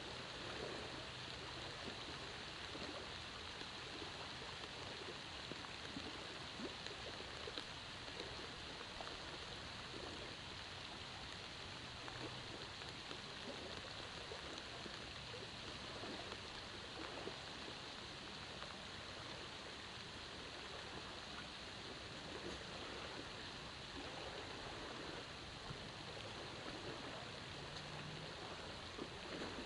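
Light rain falling steadily, with faint scattered drop ticks, heard through a waterproof camera housing.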